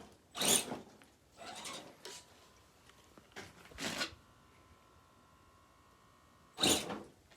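Redcat Gen7 Sport 1/10-scale rock crawler's tires scrabbling and scraping over dirt and rock as it digs in on a climb, in four short bursts, with a faint steady whine for a couple of seconds before the last one.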